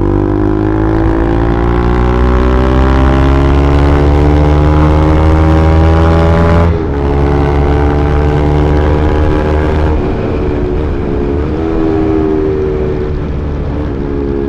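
Bajaj Pulsar NS200's single-cylinder engine through an aftermarket Akrapovic exhaust, accelerating with its pitch climbing steadily for about seven seconds. The note then drops abruptly as it shifts up, and runs on at a lower, roughly steady pitch.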